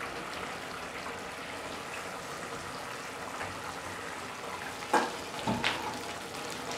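Spinach-and-curd gravy sizzling steadily in a kadhai, frying in the oil it has released, with a wooden spatula knocking against the pan a couple of times about five seconds in as it starts to be stirred.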